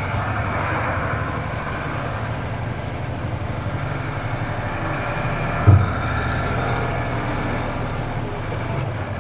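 Mercedes-Benz Unimog U2450 6x6 truck's diesel engine running steadily as it drives off-road, with a single thump a little over halfway through.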